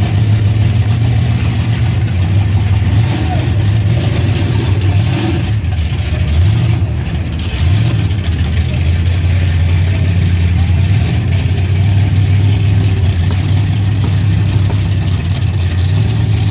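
Engine of a big off-road truck running loudly and steadily, its pitch rising briefly twice about halfway through as it is revved.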